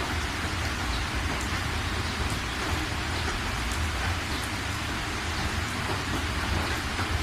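Steady rain falling, with scattered faint ticks of individual drops and a steady low rumble underneath.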